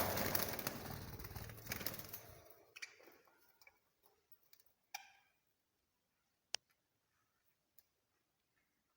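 Small cage birds: a few light clicks and taps and one short chirp about five seconds in, with a noisy background fading away over the first couple of seconds and then near silence broken by two sharp ticks.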